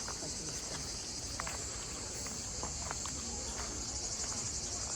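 Steady high-pitched chorus of insects chirring, with a fast pulsing texture that becomes more distinct near the end.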